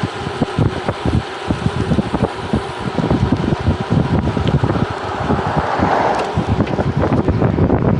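Wind buffeting the microphone in an irregular low flutter, over a steady rushing noise.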